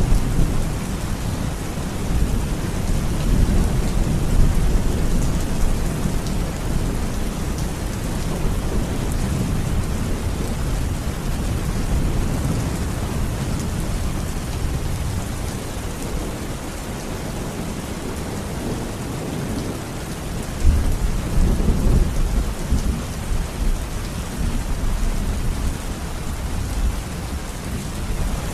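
Steady rain falling, with a deep rumble of thunder underneath that swells near the start and again about three-quarters of the way through.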